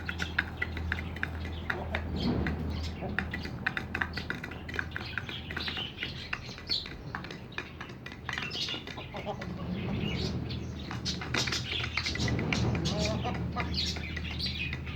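Many birds chirping and calling at once, chickens among them, with a continuous stream of short high chirps over a steady low hum.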